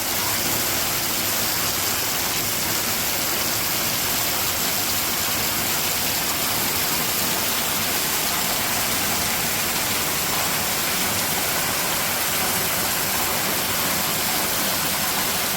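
Steady, even rushing of water with no breaks or separate events.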